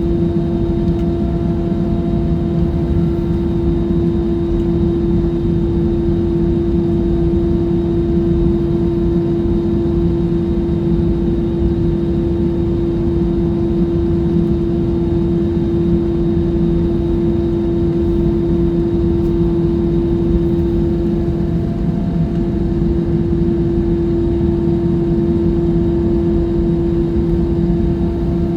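Steady airliner cabin noise: jet engines and airflow making an even low roar with a constant droning hum. The level and pitch hold steady throughout.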